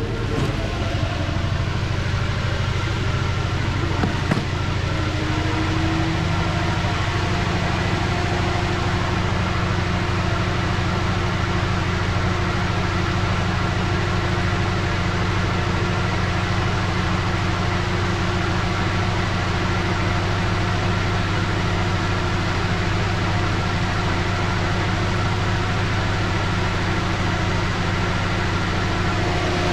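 2009 Lincoln MKZ's V6 engine idling steadily while misfiring; fault codes point to the fuel injectors on cylinders 1 and 4. A single click about four seconds in.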